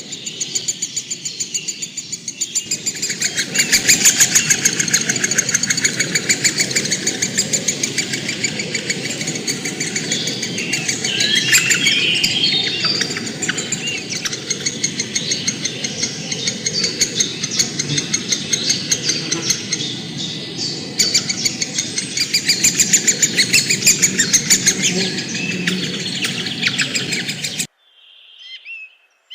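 Many birds calling at once, a dense, rapid chatter of high chirps. It cuts off abruptly near the end, and a few separate whistled chirps follow.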